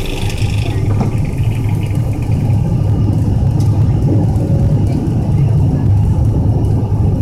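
Steady low rumble of an airliner's jet engines and airframe heard from inside the passenger cabin.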